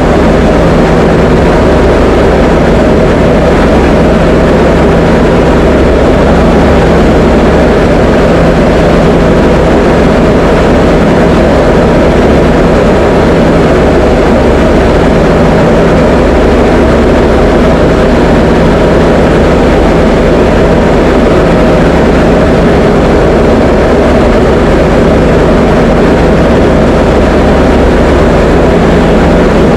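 Diamond DA20 light aircraft's piston engine and propeller running steadily, a loud even drone as heard inside the cockpit in flight.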